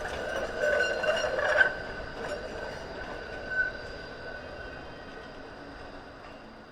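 Tram's steel wheels squealing on a tight curve: a high ringing squeal, loudest in the first couple of seconds with a brief flare-up later, then fading away as the tram rolls on.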